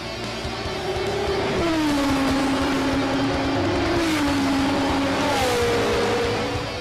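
Race car engine running hard on the circuit. Its note drops sharply twice, then jumps to a higher pitch near the end.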